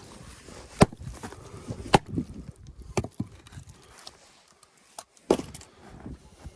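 An axe striking wood: four sharp chopping blows, the first three about a second apart and the last after a pause of about two seconds.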